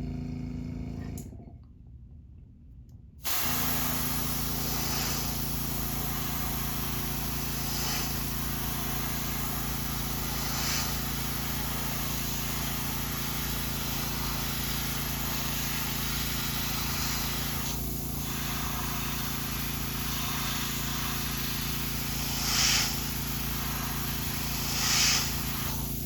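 Airbrush spraying candy blue paint in a steady hiss over a low hum, layering colour onto a crankbait. The sound cuts out briefly about two seconds in, then runs on, with two short louder bursts of spray near the end.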